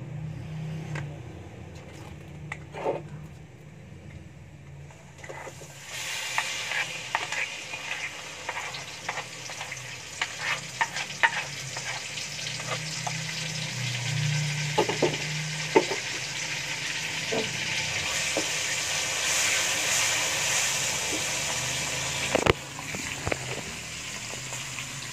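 Ground spice paste sizzling in hot oil in a wok, with a spatula clicking and scraping against the pan as it is stirred; the paste is being sautéed until it turns yellow and cooked. The sizzle starts about six seconds in and drops away sharply near the end.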